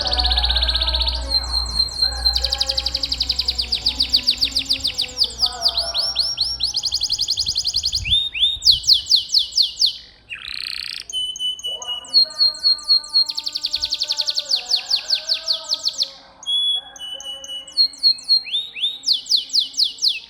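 Domestic canary singing: long fast trills of rapidly repeated high notes and rolls, mixed with short whistled notes, with brief breaks about halfway and again a little before the end.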